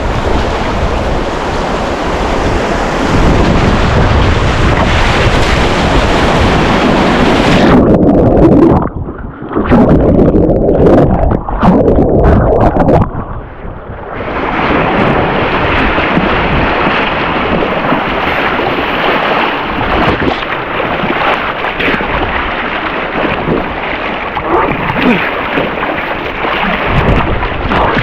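Loud rushing water with wind buffeting the microphone. From about 8 to 14 seconds in it turns muffled and uneven, then the rush comes back.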